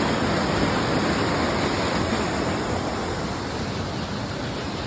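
Loud, steady rush of running water with no pauses or swells.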